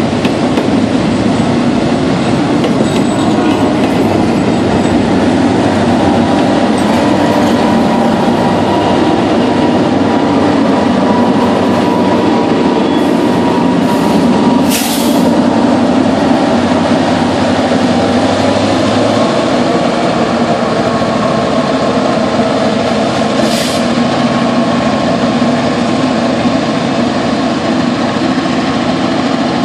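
Freight cars being shoved up a steep grade, rolling by with a steady heavy rumble of wheels on rail and a wavering squeal from the wheels. A short hiss cuts through about fifteen seconds in, and again more faintly near twenty-four seconds.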